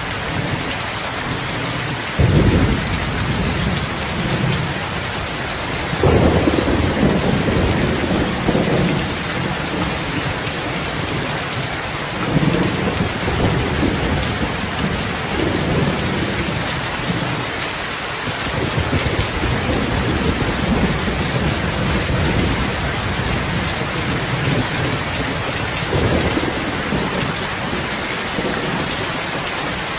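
Steady heavy rain with thunder: a sudden clap about two seconds in, then several long, low rolling rumbles that come and go over the rain.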